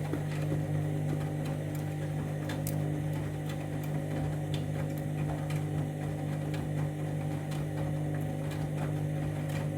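Candy Grand'O Vita 7kg washing machine running its main wash: a steady motor hum with faint scattered clicks.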